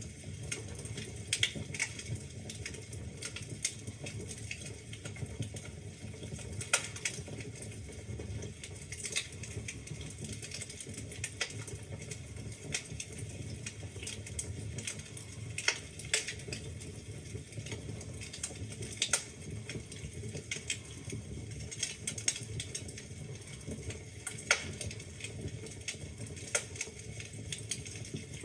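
Wood fire crackling in a fireplace: a steady low rumble of the flames with frequent small pops and snaps, and a handful of louder sharp pops spread through.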